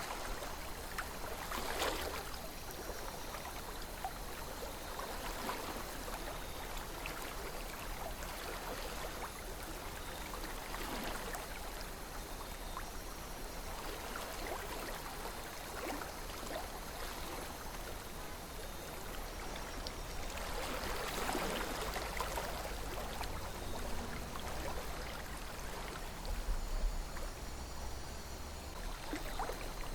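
River water flowing steadily, a continuous rush with small gurgles and splashes, swelling briefly about two seconds in and again around two-thirds of the way through.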